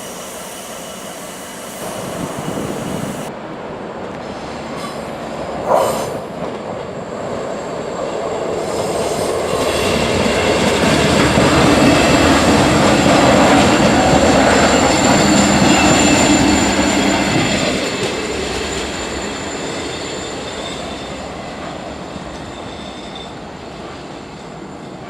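A train passing close by: the rumble of wheels on rail builds, peaks about halfway through and slowly fades, with a thin high steady squeal over it. There is a brief loud sound about six seconds in.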